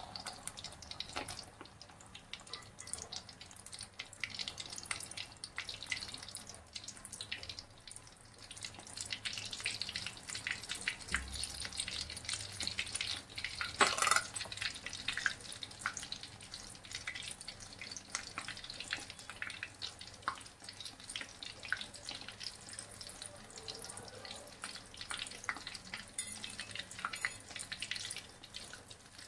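Bread rolls frying in hot oil: a dense, irregular crackling sizzle, with one louder clatter about halfway through.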